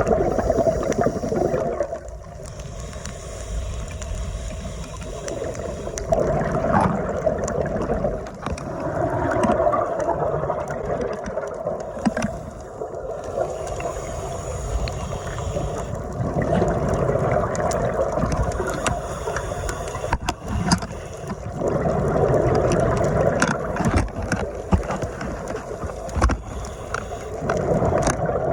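Underwater sound through a phone's dive housing: a scuba diver's exhaled bubbles gurgling out of the regulator in surges every several seconds, over a steady muffled rush of water.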